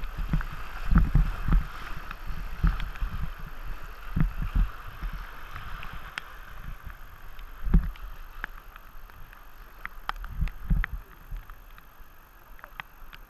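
Kayak paddle strokes splashing through fast-flowing river water over the steady rush of the current, with irregular low thumps. The rushing fades toward the end.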